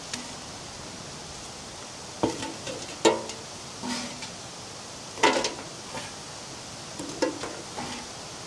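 Sparse background music: single plucked guitar notes at irregular intervals, each ringing briefly, over a steady hiss.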